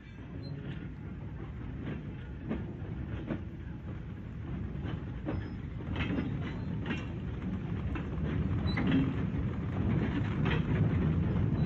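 Coal train rolling slowly into a station: a low rumble of wheels on rail with irregular clanks and knocks from the wagons, growing louder as it draws near.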